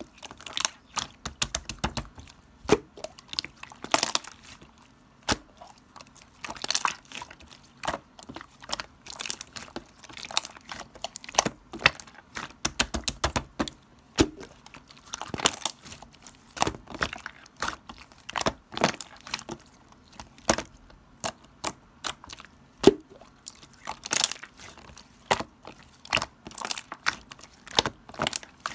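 Purple slime being squished, poked and stretched by hand, giving irregular sticky clicks and pops with a few longer squelches.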